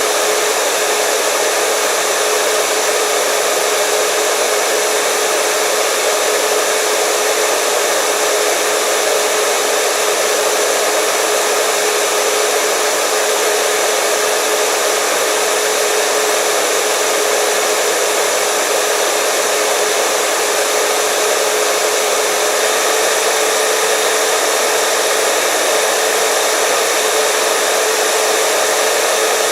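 Hair dryer running steadily, a constant blowing whoosh with a steady motor whine, unchanging throughout.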